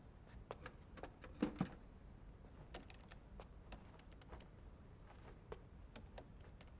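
Quiet night-time room ambience: a faint high chirp repeats evenly about three times a second, with scattered light clicks and taps, the loudest pair about a second and a half in.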